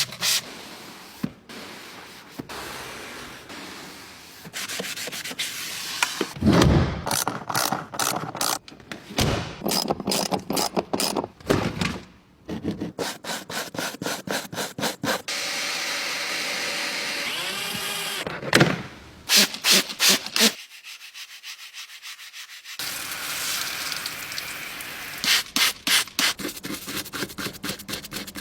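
Car being scrubbed by hand during washing: runs of fast, repeated rubbing strokes against its surface, broken by stretches of steady hiss.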